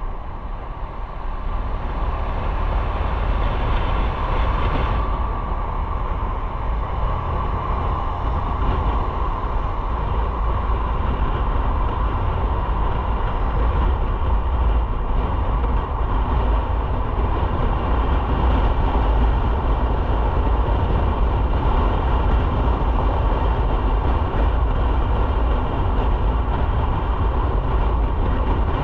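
Motorcycle on the move: a steady drone of engine and road with a heavy low rumble, typical of wind on the rider's microphone.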